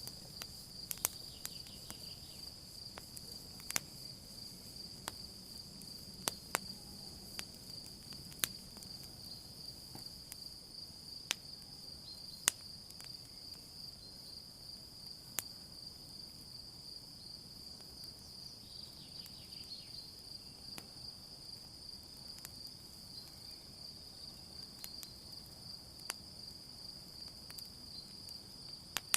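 Campfire crackling with scattered sharp pops, denser in the first half, over the steady high trill of crickets chirping at night.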